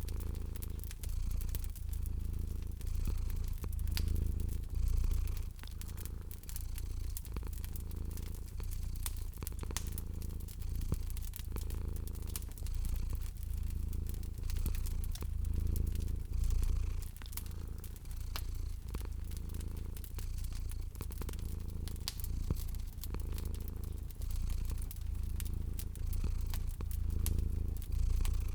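Domestic cat purring, a low rumble that swells and fades every second or two, over a wood fire's steady crackling of sharp pops and snaps.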